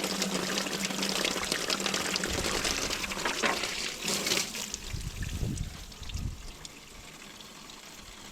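Water pouring and splashing out of a Massey Ferguson 245 tractor's radiator as it is flushed clean. The flow is loud at first, then dies down to a quieter trickle about halfway through.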